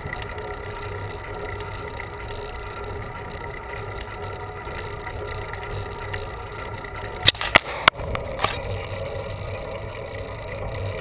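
Bicycle being ridden uphill: steady wind and road noise, with a few sharp clicks or knocks about seven to eight and a half seconds in.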